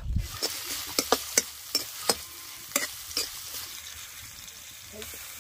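Potatoes frying in oil in a kadhai, a steady sizzle, with the stirring utensil knocking against the pan about eight times in the first three and a half seconds.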